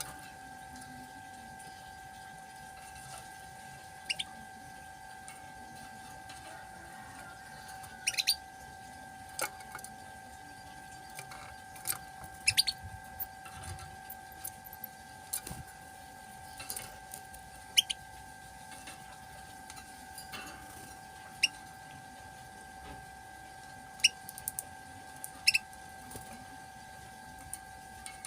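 Caged male canary giving scattered short, sharp chirps, about a dozen spread irregularly, rather than a continuous song, over a steady hum.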